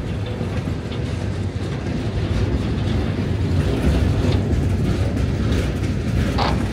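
Empty coal cars of a freight train rolling past, a steady low rumble of steel wheels on rail with occasional clacks. A few short, sharp higher sounds come near the end.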